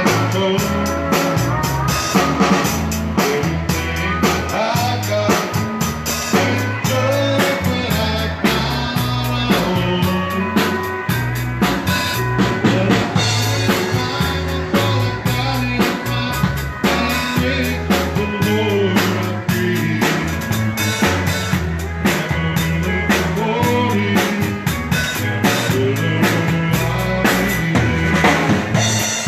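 Texas Czech dance band playing live: drum kit keeping a steady beat with snare and bass drum under a stepping bass line and melody instruments, with no singing.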